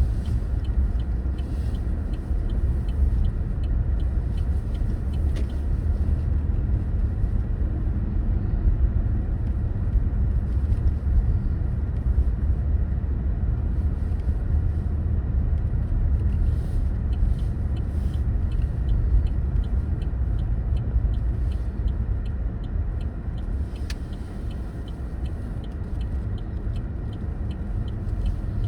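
A car driving, with a steady low rumble of road and engine noise. A faint regular ticking comes in near the start and again for the last dozen seconds.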